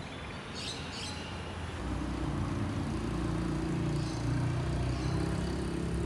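A few brief, high bird chirps under a second in, then a low rumble that grows louder from about two seconds in and stays to the end.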